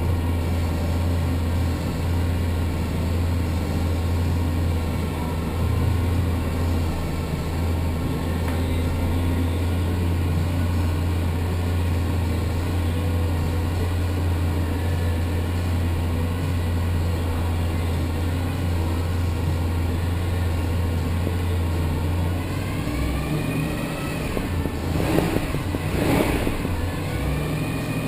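A 360 cubic-inch small-block Chevrolet V8 running steadily on an engine dyno. About 23 seconds in, the note changes and the revs rise, with two short, louder bursts near the end before it settles.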